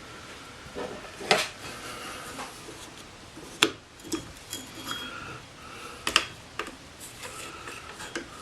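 Sharp metallic clicks and clinks, a few of them loud, some leaving a brief ring, as the clamped knife and its jig are handled on the sharpening machine's metal guide rod while the edge angle is set.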